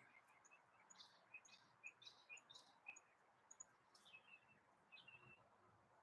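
Faint small-bird chirps and short calls, many brief high notes and quick downward sweeps scattered through the first five seconds or so.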